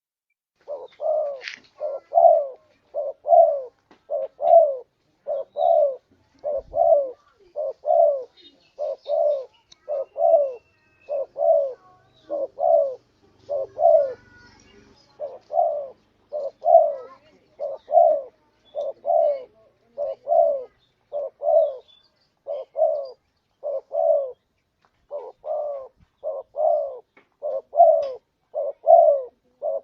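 Spotted dove (tekukur) cooing: a long run of short coos, repeated about once a second. It is a lure call used to draw in wild doves.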